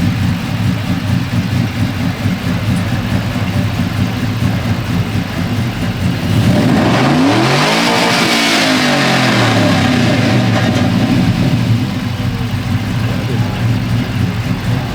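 Cammed GM LS V8 idling with a choppy lope, then revved once about seven seconds in, climbing to a peak and falling back to idle.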